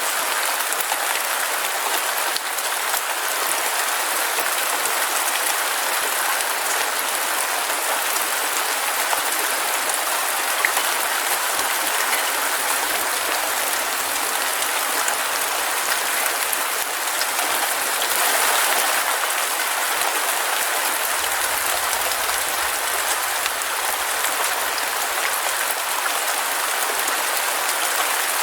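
Heavy rain falling steadily: a dense, even hiss of countless drops, swelling slightly about two-thirds of the way through.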